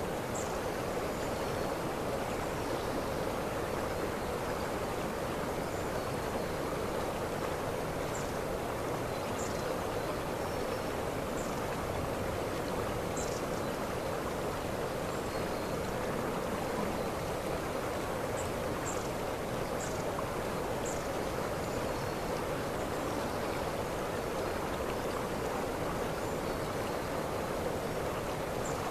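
Waterfall: a steady, even rush of falling water with no change in level. Short, faint, high chirps come through every second or two over it.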